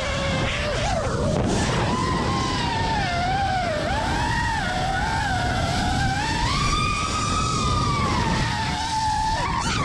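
FPV quadcopter's electric motors whining, the pitch wavering up and down as the throttle changes, over a low rushing noise.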